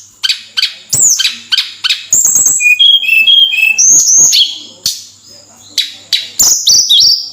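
Tledekan songbird singing in full voice (gacor): a fast, varied string of short high whistled notes, many sweeping downward, with a few lower, briefly held notes near the middle.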